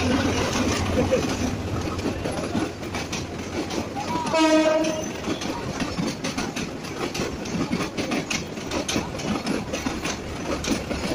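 Passenger train rolling past, its wheels clacking over the rail joints over a steady rumble. A short horn blast sounds once, about four seconds in.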